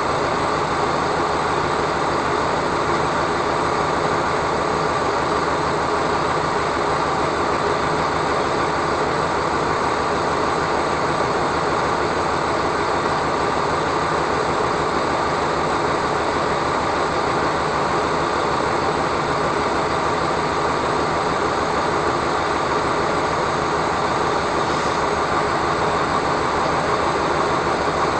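Steady vehicle running noise: a constant engine drone mixed with rolling noise, with no change in pitch or level.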